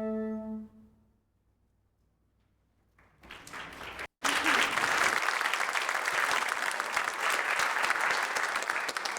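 A held musical chord dies away in the first second; after a short pause an audience begins applauding about three seconds in, then claps loudly and steadily.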